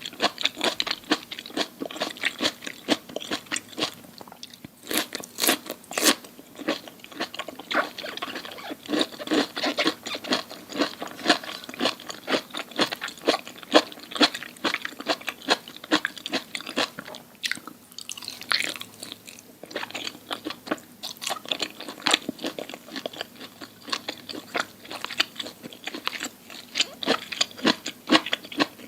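A person chewing and crunching crisp food close to the microphone: a dense run of crackling crunches, with a few louder bites about five to six seconds in.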